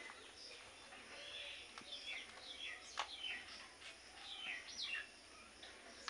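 Small bird chirps: a run of short, falling chirps, several a second, with one sharp click about three seconds in.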